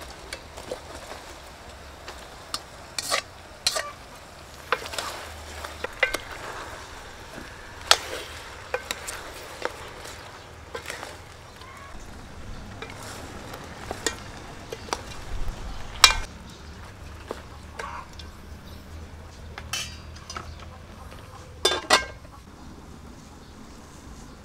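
Chicken heads sizzling in hot oil in an aluminium pot, with irregular clinks and knocks against the pot as they are stirred.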